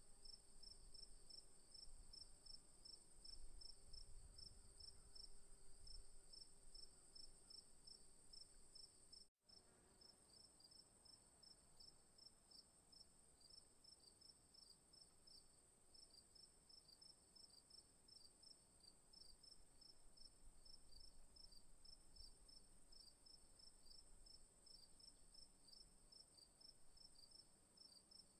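Faint chorus of night insects, mostly crickets: a steady high-pitched drone over a rapid, regular chirping of about four or five chirps a second. The sound cuts out for a moment about nine seconds in.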